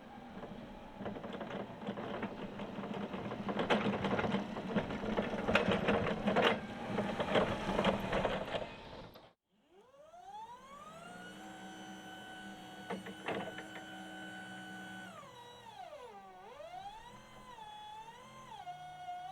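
Toyota 8FBMKT20 electric forklift: first a clattering, rattling mechanical noise over a steady hum. After a sudden break, an electric motor whine rises in pitch, holds steady, then swings up and down as the motor speed changes.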